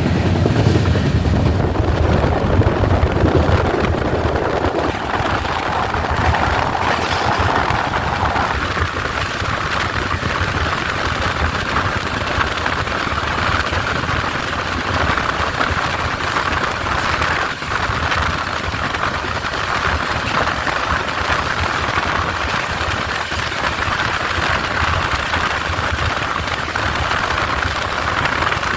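Express train running at speed: continuous wheel and rail noise, with a deep rumble in the first few seconds settling into a steady, even rushing noise.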